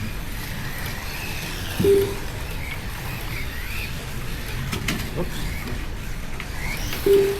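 Slot cars racing, their small electric motors whining up and down in pitch as they speed up and slow down around the track. Two short, loud, steady tones stand out, about two seconds in and again near the end.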